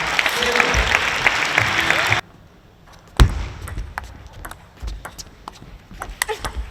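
Arena crowd cheering and clapping, cut off abruptly about two seconds in. Then a quiet hall with one loud thud and scattered sharp clicks of a table tennis ball on bat and table.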